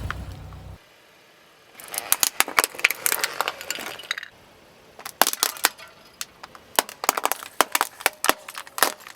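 Brittle crunchy objects being crushed: two bouts of sharp cracking, crackling and clinking, the first dense and the second a run of separate snaps. A low car rumble fades out just before.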